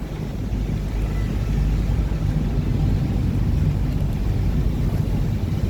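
Engine of a Chao Phraya Tourist Boat river ferry running steadily under way, heard on board as a continuous low drone.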